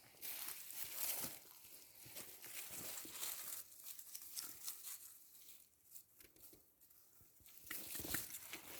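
Faint, irregular rustling and crackling of dry leaves and brush.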